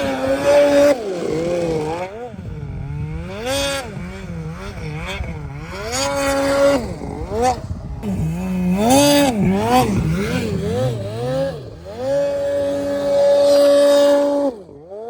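Snowmobile engine revving hard and unevenly in deep powder, the pitch climbing and dropping again and again. Several times it is held flat at high revs, the longest hold lasting a couple of seconds near the end before the revs fall away.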